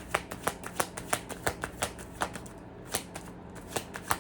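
Deck of oracle cards being shuffled by hand: a quick, irregular run of sharp card clicks, about five a second.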